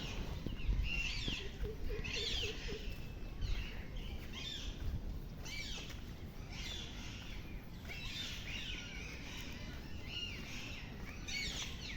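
Birds chirping outdoors in short calls about once a second, over a steady low background noise.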